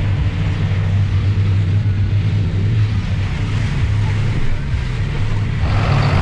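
John Deere 7710 tractor's diesel engine droning steadily, heard inside the cab, with heavy rain hissing on the cab. Near the end the sound changes abruptly to a different, steadier engine hum.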